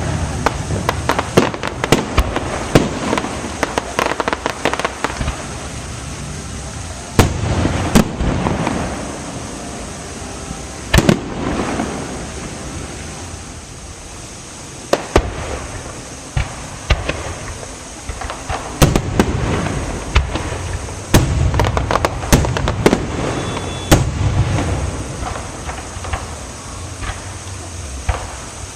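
A fireworks display with aerial shells bursting in quick succession: sharp bangs with rolling, echoing rumble between them, over continuous crackling. The heaviest bangs come in clusters, about seven, eight, eleven and fifteen seconds in, and again after about nineteen seconds.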